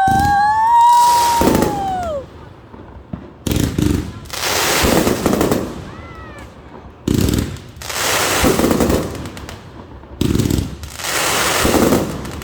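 Consumer fireworks. A whistling firework glides up in pitch and then falls away at the start. Then come three shots about three seconds apart, each a sharp report followed about a second later by a longer crackling burst.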